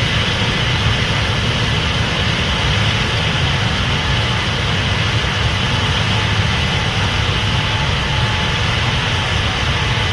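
Case IH 8250 Axial-Flow combine running steadily while harvesting corn: a constant heavy engine drone with the whir of the threshing machinery over it.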